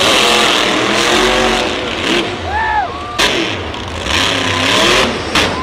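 Monster truck engine revving loudly, with pitched shouts or cries over the engine noise.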